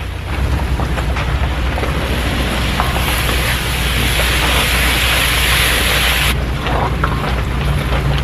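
Rain falling steadily with scattered small drip ticks over a low steady rumble. A louder hiss joins about three seconds in and cuts off suddenly about six seconds in.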